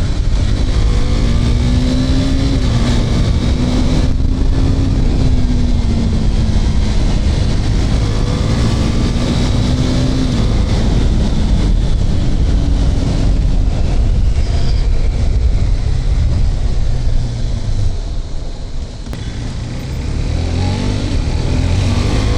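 KTM RC 390's single-cylinder engine on its stock exhaust, accelerating hard through the gears: the pitch climbs and drops back at each upshift. It eases off about three-quarters of the way through, then pulls again.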